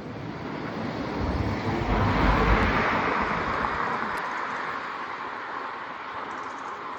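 A vehicle passing close by on the road, its tyre and road noise swelling to a peak about two seconds in and then slowly fading away.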